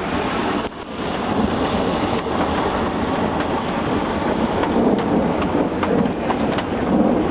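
Steady hiss of traffic on a wet street after rain, tyres running over wet asphalt with a low rumble, and a brief drop in level about a second in.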